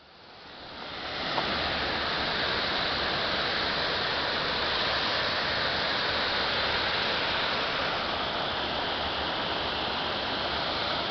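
Waterfall's water crashing and rushing in a steady, dense roar of noise, rising in over the first second and then holding level.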